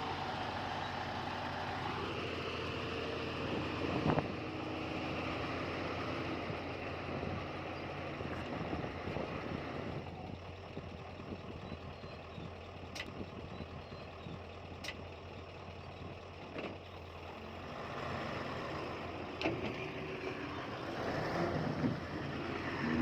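Heavy diesel earthmoving machinery running steadily, with a few sharp metallic knocks.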